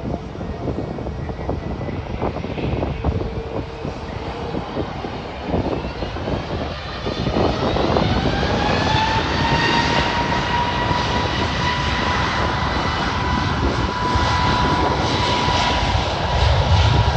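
Airliner jet engines spooling up for the takeoff roll: a low rumble, then a whine that rises about halfway through and holds steady as the sound grows louder toward the end.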